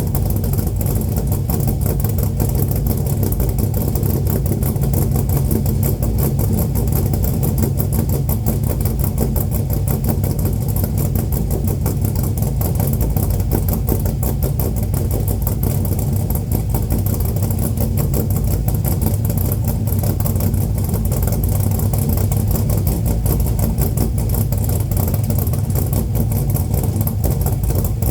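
440 V8 idling steadily after a cold start, exhausting through straight dual pipes with no catalytic converters.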